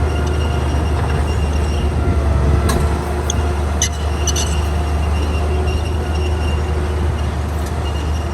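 Komatsu D41P crawler bulldozer's diesel engine running steadily under load, with a high metallic squeal from its steel tracks and a few sharp clanks about three to four seconds in.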